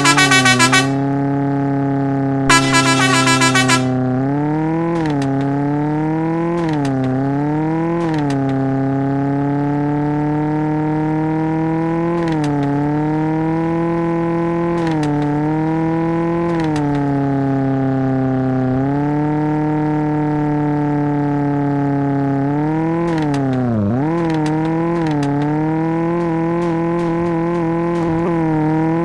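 Tofaş Doğan/Şahin car engine held at high revs, its pitch rising and sagging a little every couple of seconds, with a rapid stuttering burst about three seconds in and a deeper dip and recovery near the end.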